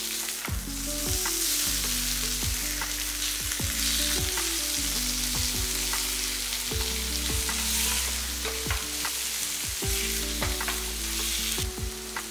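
Raw banana (plantain) slices in a thick masala sizzling in oil in a nonstick frying pan, with a spatula scraping and clicking against the pan as the slices are turned over. The sizzle is steady, broken by frequent short clicks.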